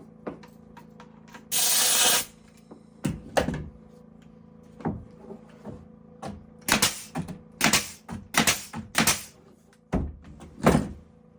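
Irregular sharp knocks and taps of carpentry work on wood, about a dozen strikes that come in clusters, with a short hissing burst about two seconds in.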